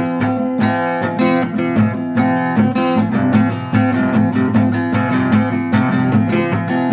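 Guitar strummed in a steady rhythm, chords ringing between the sung lines of a country-style song.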